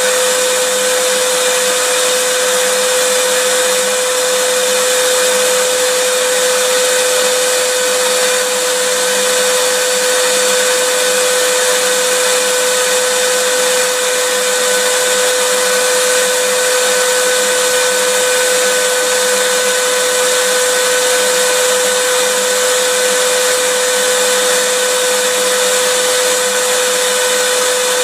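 Electric vacuum cleaner running continuously: a steady whine with a strong hum over a broad rush of air.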